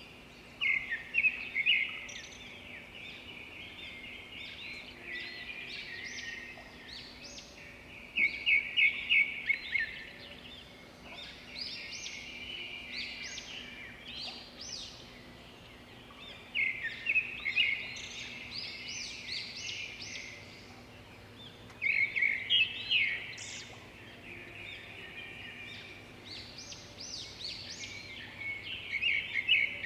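Birds chirping in repeated bursts of quick, high calls every few seconds, over a faint steady hum.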